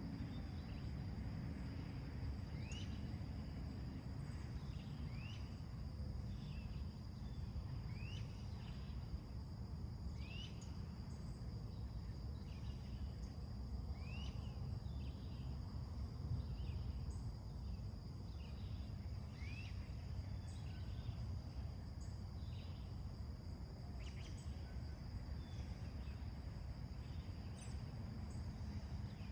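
A steady high insect drone, with a bird repeating short rising chirps every second or two, over a constant low background rumble.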